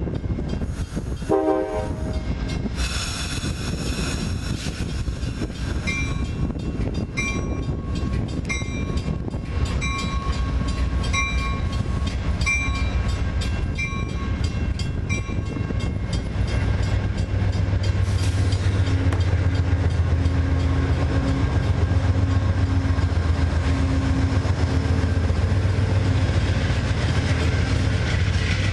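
Amtrak passenger train rolling past, its wheels clicking over rail joints in a slow, even beat, then a louder deep steady rumble through the second half.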